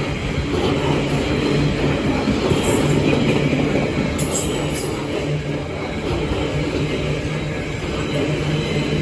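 Intermodal freight train passing, its wagons rumbling steadily over the rails, with two brief high wheel squeals about two and a half and four seconds in.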